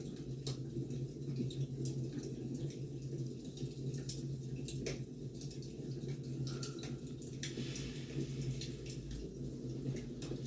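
Wood fire crackling: scattered sharp pops and snaps over a steady low rumble of burning logs. There is a brief rustle about three quarters of the way through.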